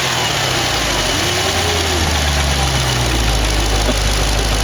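Jeep Grand Cherokee Trackhawk's supercharged 6.2-litre V8 idling with a steady deep rumble between throttle blips, with a faint brief rise and fall in pitch about a second in.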